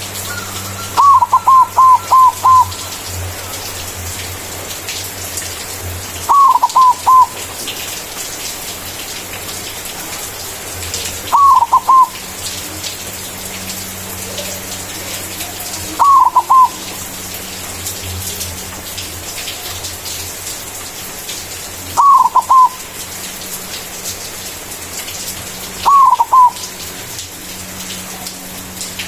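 White zebra dove (perkutut putih) cooing its manggung song: six short phrases of quick, slightly falling notes, one about every five seconds. The first phrase has about five notes and the later ones two or three. A steady hiss and a low hum run underneath.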